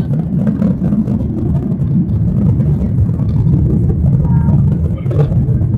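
Steady low rumble in the passenger cabin of a Boeing 737-800, the noise of its CFM56 engines running with the aircraft on the ground.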